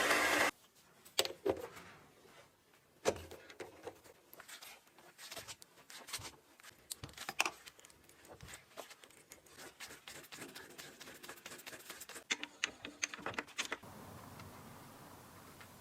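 A loud steady power-tool noise cuts off abruptly about half a second in, followed by scattered clicks, taps and light knocks of small metal parts and tools being handled on a workbench. A faint steady hum is left near the end.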